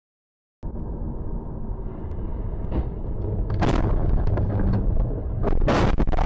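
A heavy low rumble, like a vehicle on the road, starts suddenly and grows louder, with loud bangs about three seconds in and again near the end.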